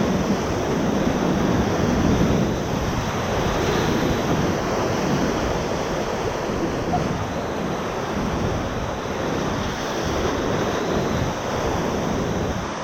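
River whitewater rushing steadily around a raft in a rapid at high water, with wind noise on the microphone.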